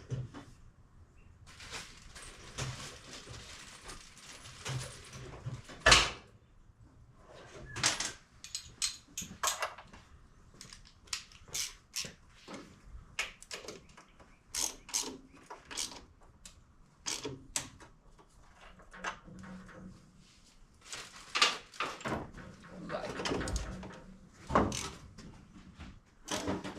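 Hand tools and small metal parts being handled and sorted, giving scattered clicks, clinks and knocks. There is a stretch of rustling about two to five seconds in, and a sharp knock about six seconds in.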